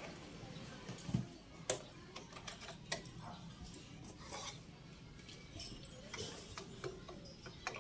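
Scattered light clicks and knocks of hands handling a Brother BS-40 compact sewing machine and its parts as it is taken apart, the sharpest click a little under two seconds in.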